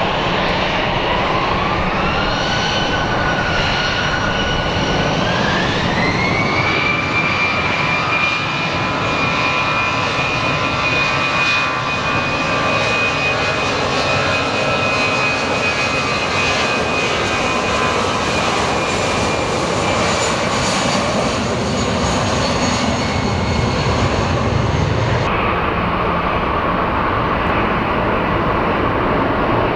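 Jet engines of an Airbus A319-112 (CFM56) spooling up for a wet take-off. The fan whine rises in two steps, then holds steady at take-off thrust under a broad rushing roar before fading. Near the end the sound changes abruptly to a different, duller rumble.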